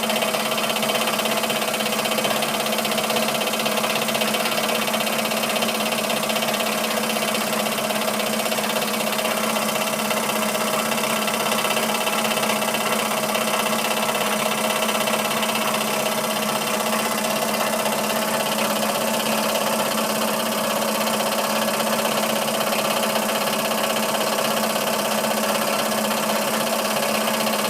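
Model steam plant running steadily: a Stuart ST stationary steam engine turning a dynamo through a drive shaft and pulleys, with an even mechanical hum.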